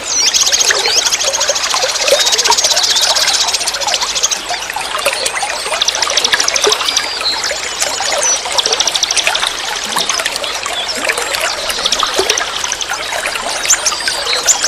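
Flowing forest stream trickling steadily, with songbirds singing fast, high trills and chirps over the water.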